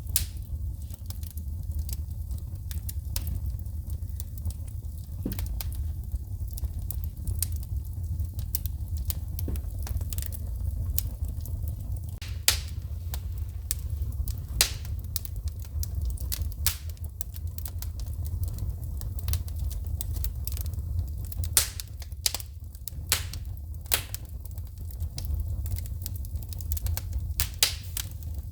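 Wood fire burning in a fireplace: a steady low rumble of flame with irregular crackles and sharp pops of sparking wood, a few louder pops standing out.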